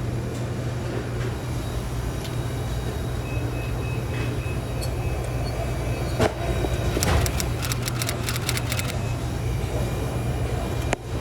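Steady low machine hum. About six seconds in there is a knock, then a quick run of sharp metallic clicks lasting about two seconds.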